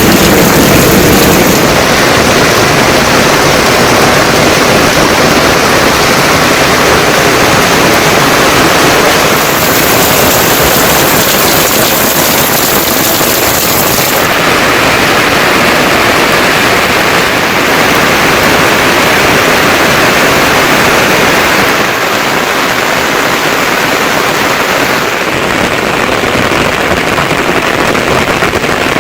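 Heavy monsoon rain falling as a loud, steady hiss. Its tone changes abruptly a few times, about a third of the way in and twice more near the end.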